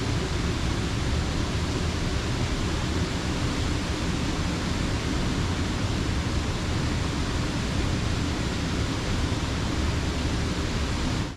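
Creek water pouring over a low mill dam: a steady, heavy rush of water, strongest in the low end, that cuts off suddenly at the very end.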